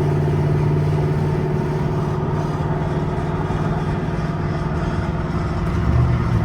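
Pickup truck engine running at a steady pitch, a little louder for a moment near the end.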